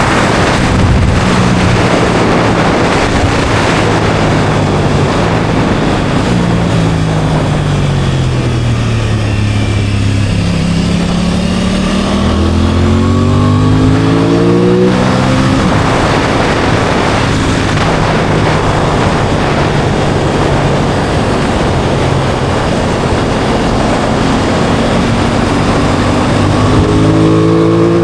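Aprilia Tuono 660 Factory's parallel-twin engine under way over heavy wind noise. Its note falls as the bike slows, then climbs under acceleration until a sharp gear change about halfway through, holds fairly steady, and climbs again near the end.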